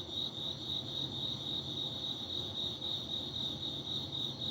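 Cricket chirping steadily, a high pulsing trill of about four chirps a second.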